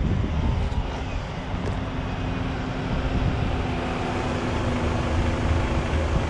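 Honda CB750's four-cylinder engine running at a steady pitch under way, with road and wind rumble on the helmet-mounted camera.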